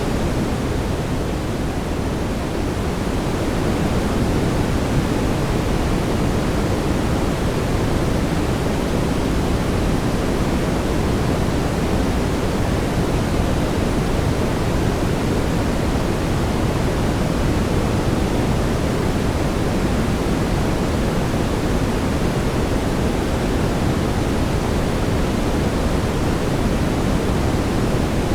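Steady brown noise: an even, deep hiss with most of its weight in the bass and little at the top, unchanging throughout.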